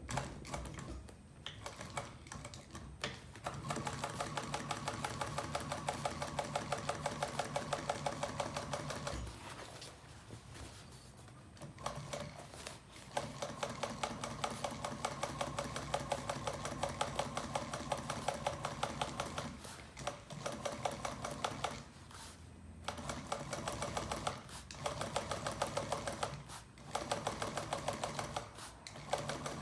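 Sewing machine stitching upholstery material for a door panel. It runs at an even, fast pace in several stretches of a few seconds each, stopping briefly between them. The longest runs come in the first half.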